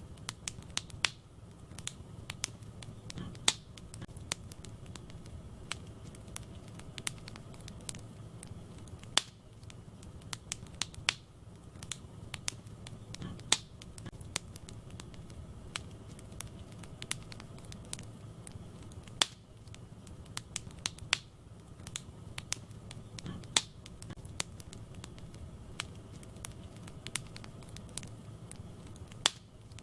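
Wood fire crackling in a fireplace: irregular sharp pops and snaps, sometimes several close together, over a soft steady low rumble of the burning logs.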